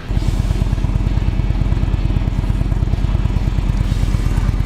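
Indian V-twin motorcycle engine running with a steady, low, rapid beat, heard from on the bike.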